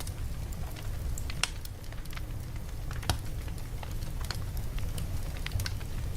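Campfire crackling: irregular sharp pops and snaps of burning wood over a steady low rumble of the flames, with the loudest pops about a second and a half in and about three seconds in.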